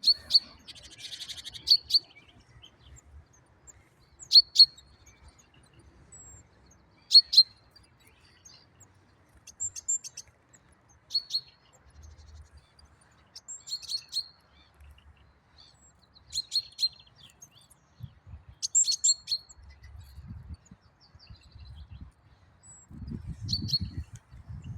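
A small bird chirping: short, sharp high chirps, often two in quick succession, repeated every two to three seconds. A low rumble comes in near the end.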